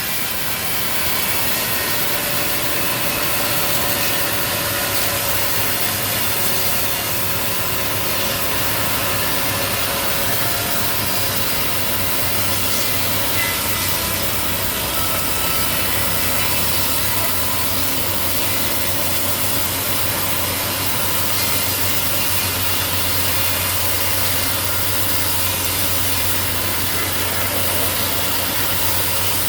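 A sawmill running steadily, its saw cutting through a log with a constant rasp over the low hum of the engine.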